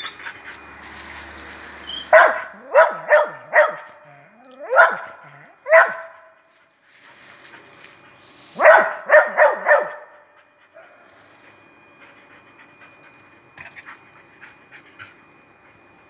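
Dogs barking in quick bursts: about ten sharp barks in three groups, the last group a little before the halfway point, then only faint background.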